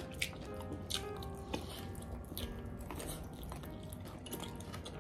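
Close-up eating sounds: biting into and chewing fried chicken legs, with many short wet smacks and clicks.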